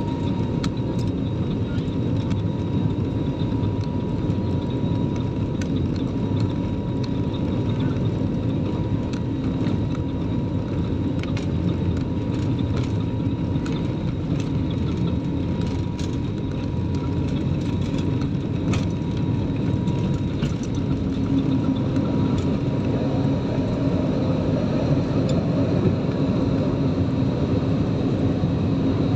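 Jet airliner's engines heard from inside the passenger cabin around takeoff: a dense, steady rumble with a thin high whine above it, and light rattles from the cabin.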